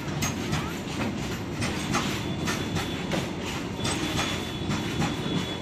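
Goods train wagons rolling past at close range, their wheels clattering over the rail joints. A thin high whine joins in about halfway through.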